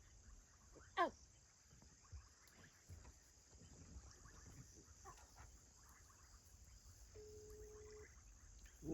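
Quiet open-air ambience: a steady high-pitched drone and a low rumble, broken about a second in by one short, sharply falling whistle-like animal call. Near the end comes a brief steady hum.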